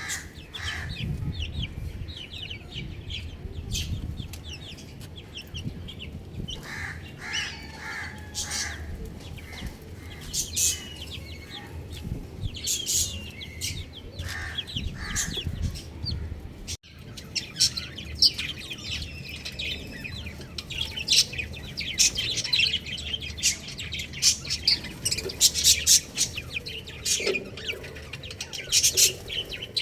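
Baby chicks peeping in quick, repeated high chirps, with a few lower clucking calls from an adult chicken mixed in. The sound breaks off abruptly about 17 seconds in and resumes with denser peeping.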